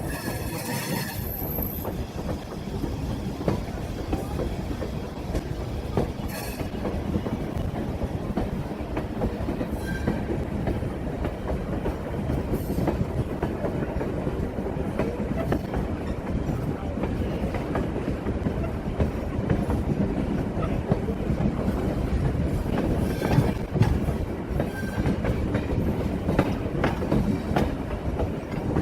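Passenger train rolling along at speed: a steady rumble of steel wheels on rail with clickety-clack over the rail joints and a few brief, faint wheel squeals.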